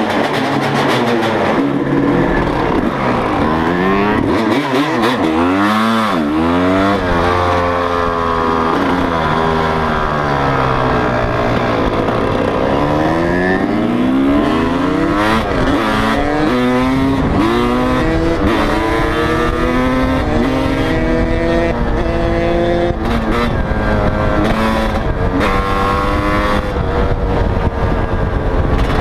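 Motocross bike engines revving up and down through the gears as they ride. Two engine notes often overlap, rising and falling again and again.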